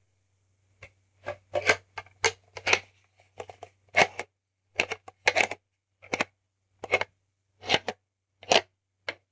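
Hand spinner being handled and tapped: a string of short, irregular scraping taps, one or two a second, over a faint low hum.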